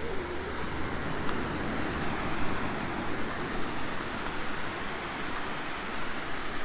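Surf: small waves breaking and washing up a sandy beach in a steady rush, with some wind on the microphone.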